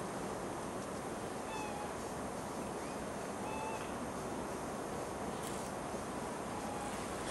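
A bird calling a few times, short, slightly falling calls a couple of seconds apart, faint against steady background hiss; the species is unknown to the listener.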